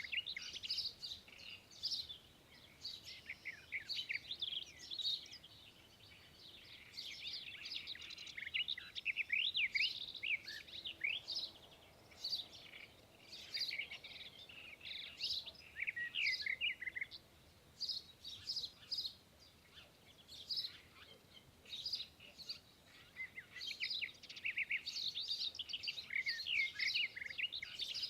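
Birds chirping: many short, quick chirps and rapid up-and-down notes, coming in clusters with brief pauses.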